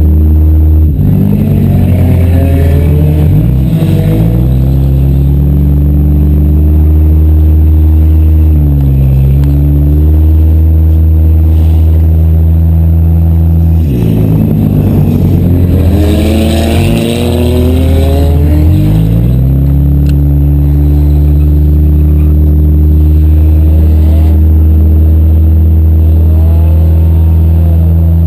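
Demolition derby car engines running loud, revving up and falling back several times, with the pitch swinging up and down between steady stretches.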